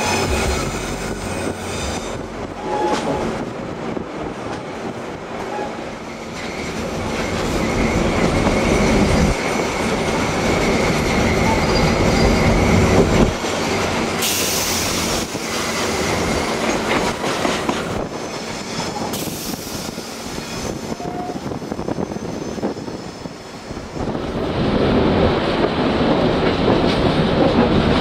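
Train running on the rails, a steady rumble of wheel and track noise with a faint high squeal in places. Two short bursts of hiss come about halfway through and again a few seconds later.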